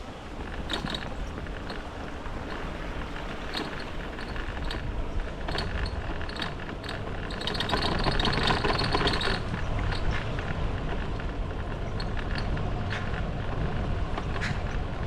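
Riding noise from a bicycle on the move: wind rumbling on the microphone, with scattered clicks and rattles. About eight seconds in, a louder rushing hiss swells for a couple of seconds.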